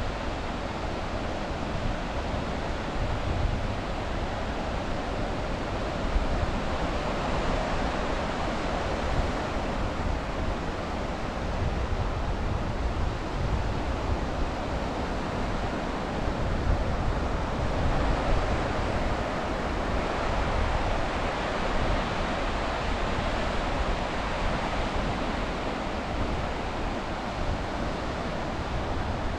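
Sea waves washing on the shore in a steady hiss, with wind gusting on the microphone as an uneven low rumble.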